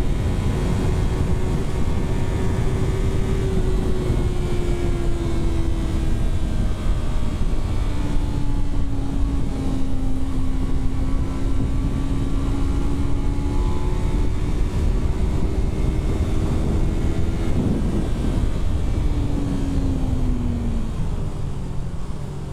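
Yamaha R3's parallel-twin engine pulling at a steady cruise, its note drifting slowly down and back up, with a brief rise then a falling pitch near the end as the bike slows. A heavy low rumble runs underneath.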